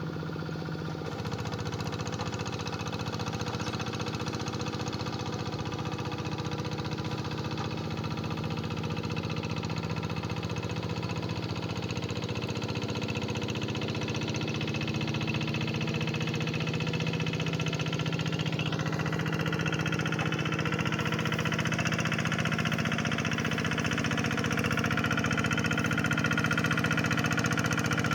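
Two-wheel hand tractor's engine running steadily while plowing a paddy field. It gets a little louder about a second in, its pitch steps up about two-thirds of the way through, and it grows slowly louder toward the end.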